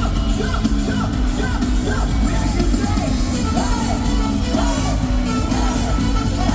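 Live funk band playing with a steady beat and bass line, with short rising-and-falling vocal calls over the music.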